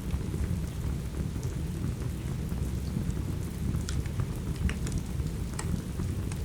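Steady rain with a deep low rumble underneath, and the sharp, scattered pops and crackles of a wood fire burning in a fireplace.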